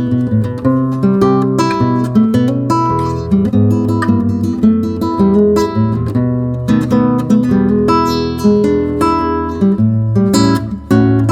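Background music: acoustic guitar playing plucked and strummed chords at a steady pace.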